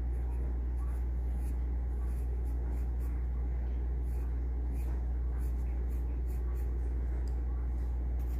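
Graphite pencil scratching on paper in short, irregular strokes, over a steady low hum.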